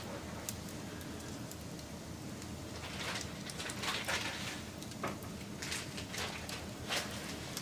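Wood fire burning: a steady rush of flame with irregular sharp crackles and pops, which come thickest from about three seconds in.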